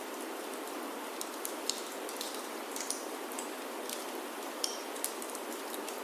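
Steady rain falling on a wooden chalet roof, mixed with irregular sharp crackles and pops from a wood fire in a fireplace.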